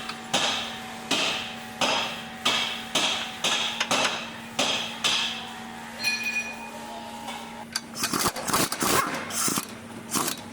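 Hammer striking metal about eight times at an even pace, roughly one blow every 0.7 seconds, typical of knocking on a stabilizer link to free it. The hammering is followed by a brief metallic ring and then irregular clattering of tools and parts, over a steady low hum.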